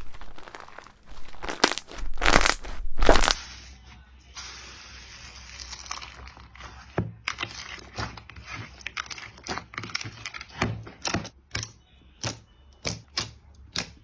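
Hands working slime: crinkly, crackling squishing, loudest about two to three seconds in, then a soft hiss, then a run of short sharp pops and clicks in the second half.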